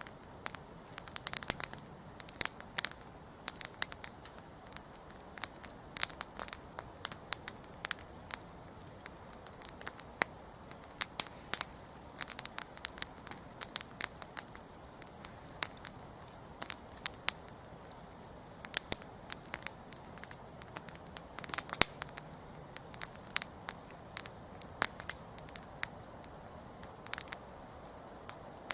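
Wood campfire crackling: irregular sharp snaps and pops, many per second at times, over a soft steady hiss.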